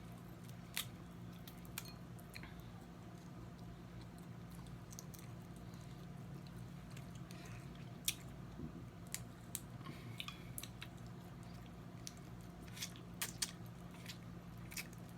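Close-miked eating of snow crab legs: quiet chewing and mouth sounds with scattered sharp clicks, over a steady low hum.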